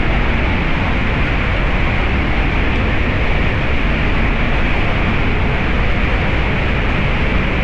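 Water rushing steadily through a canyon stream, a loud, unbroken rush.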